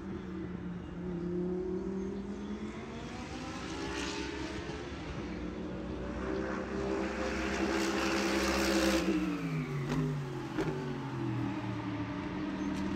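Car engine running at speed, its pitch climbing slowly, then dropping sharply as it passes by about nine seconds in, and climbing again near the end.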